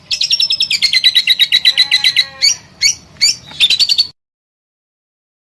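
Songbird song: a fast trill of rapid repeated notes, followed by a few sharp separate chirps, cutting off abruptly into dead silence about four seconds in.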